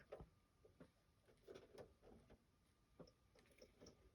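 Near silence, with faint, irregular light clicks and taps: small plastic model parts being handled and fitted against a plastic hull.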